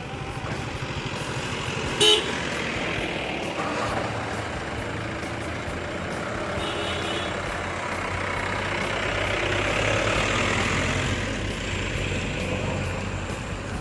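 Road vehicle running steadily, with a short, loud horn toot about two seconds in and a fainter toot a few seconds later.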